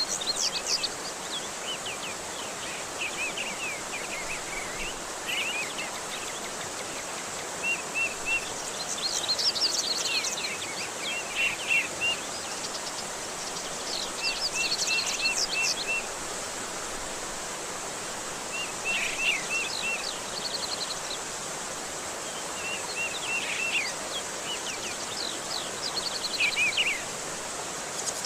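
Steady rush of running water, with small birds chirping over it in short series of high notes every few seconds.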